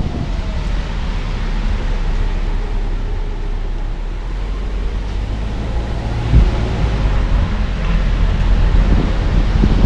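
Car driving along a road, heard from the car: steady low road and engine rumble with some wind noise, and a single bump a little over six seconds in.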